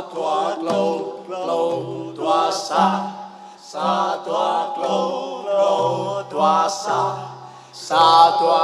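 Bahnar folk song sung solo with a wavering, ornamented vocal line in short phrases, over held low accompanying notes.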